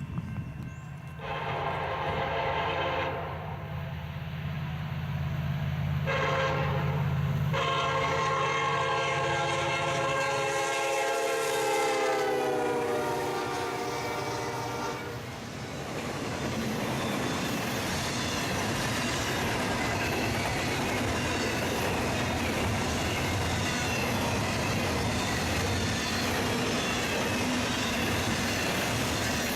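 Freight diesel locomotive horn sounding a long blast, a short one and a final long blast whose pitch drops as the locomotive passes, over the hum of its engine. Then the rumble and clatter of the freight cars rolling past on the rails.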